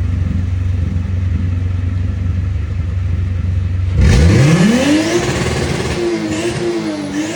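Car engine running at a steady low drone. About four seconds in it gives way abruptly to a hard rev, the pitch sweeping sharply up and then holding high and wavering.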